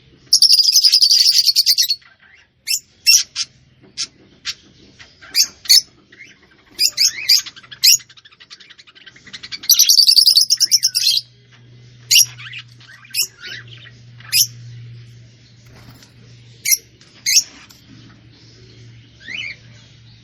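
Small songbird chirping: scattered short high chirps, with two loud, fast trills of about a second and a half each, one at the start and one about ten seconds in, over a faint low hum.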